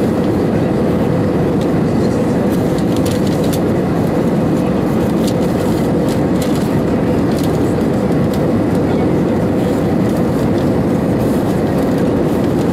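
Steady, loud cabin noise inside an Airbus A319-112 under high thrust: the roar of its CFM56 engines and the rush of air past the fuselage, with a steady hum running through it.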